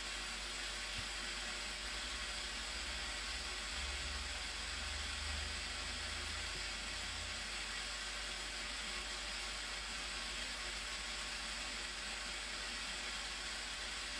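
Steady, even rushing of falling water from the Blue Nile Falls, with a faint low rumble for a few seconds around the middle.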